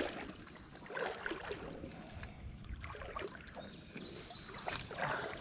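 Faint water sounds around a small boat on a creek, with scattered light clicks and knocks.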